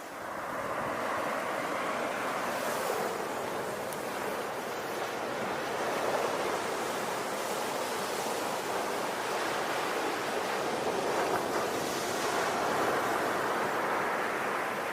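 Ocean surf: waves washing in continuously, swelling and easing with no pause.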